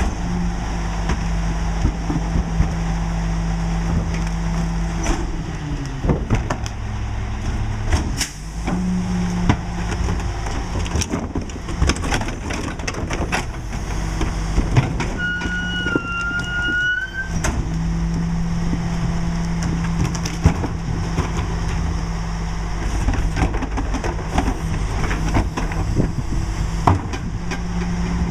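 Mack LE garbage truck's diesel engine running, its pitch stepping up and down, with repeated knocks and clatter of refuse being tipped and packed by the McNeilus rear loader. A short squeal that rises slightly comes about halfway through.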